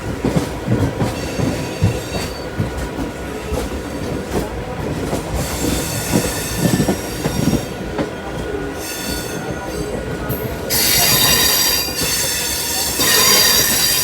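LTT–Shalimar Express passenger train running through a junction, its steel wheels squealing against the rails in high-pitched bouts over a steady rumble and irregular clacks. The squeal is loudest in two stretches over the last few seconds.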